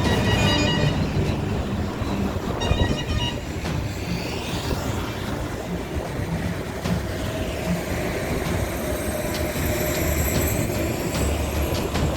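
Steady rumble of heavy road traffic, with short pitched sounds near the start and about three seconds in.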